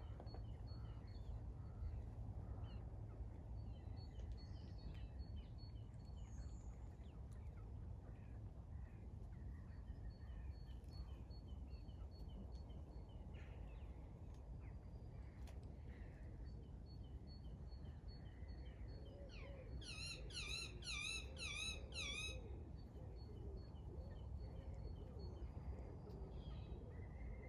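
Songbirds singing in the background over a steady low rumble, with thin high notes repeated on and off. About twenty seconds in, one bird sings a louder phrase of about six quick swooping notes, the loudest sound here.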